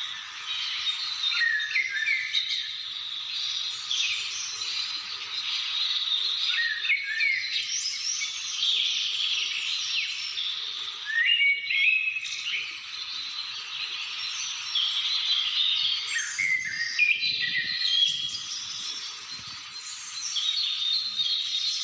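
Several wild birds calling and singing at once, a dense chorus of overlapping chirps and short whistles.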